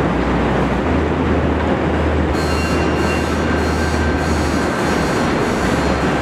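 CTA Bombardier 5000-series rapid-transit train rolling along elevated steel track with a steady rumble. About two seconds in, a high-pitched wheel squeal sets in and pulses on and off.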